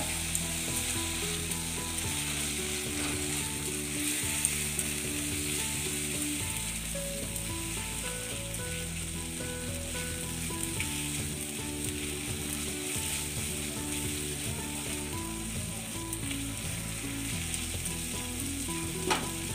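Spice masala of tomato, ground spice paste and chilli powder sizzling steadily in hot oil in a pan while it is stirred with a spatula. It is being fried down until the oil separates from the masala.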